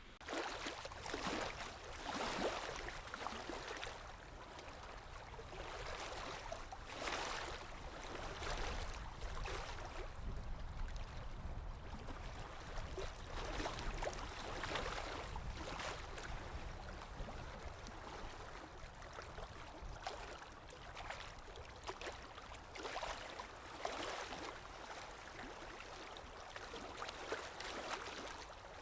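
Flowing stream water splashing and gurgling steadily, swelling and easing every second or two.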